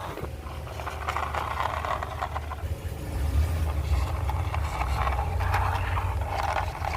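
Plastic toy vehicle being handled, with irregular crackling and scraping over a steady low rumble.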